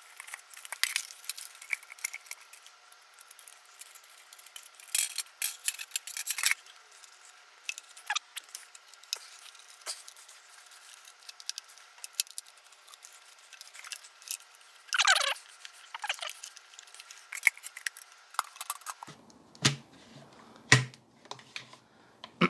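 Plastic parts of a Dyson DC33 vacuum cleaner being handled and wiped clean: scattered clicks, taps and short rubbing strokes, with one longer swishing stroke about fifteen seconds in.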